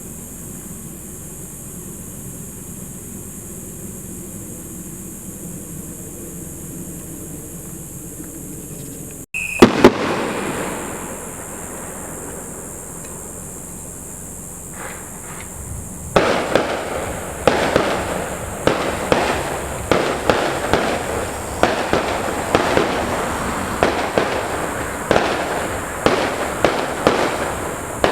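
Fireworks display. After a stretch of steady background noise, two loud shell bursts come about nine seconds in and die away. From about sixteen seconds a rapid barrage of bursts follows, roughly one and a half a second, with crackling between them.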